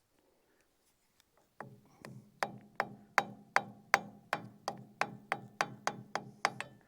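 Hammer tapping steadily on metal, about fifteen sharp strikes at nearly three a second, each with a short ring, starting about a second and a half in.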